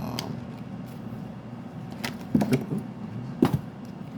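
Tarot cards being shuffled and handled, heard as a few sharp slaps and clicks about two and three and a half seconds in, over a steady low hum.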